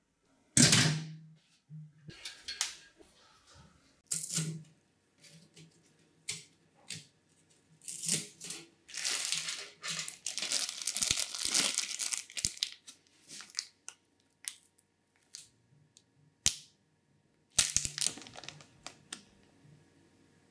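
Plastic packaging crinkling and tearing in irregular bursts, densest in the middle, with a few sharp clicks and knocks near the end.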